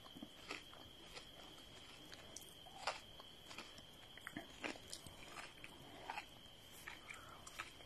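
Faint chewing of raw cucumber, with scattered short clicks and crackles of the mouth, over a steady faint high-pitched whine.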